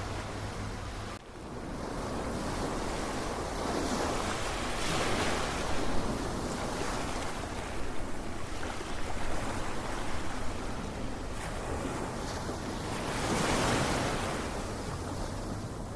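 Ocean surf: a steady wash of waves that swells twice, once about a third of the way in and again near the end, then recedes.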